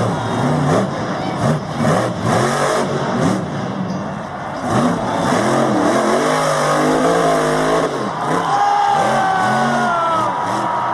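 Monster truck engine revving up and down again and again. A thin high whine slides down in pitch near the end.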